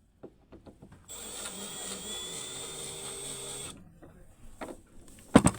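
A small power tool runs steadily for about two and a half seconds with a faint whine, between light clicks and knocks of hand work on metal. A louder knock comes near the end.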